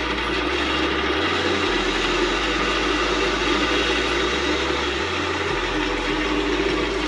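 Restored Delta 28-303 band saw running steadily with a 1/2-inch resaw blade fitted and tensioned: an even motor and blade hum, pretty quiet, which marks the saw as running smoothly after its rebuild.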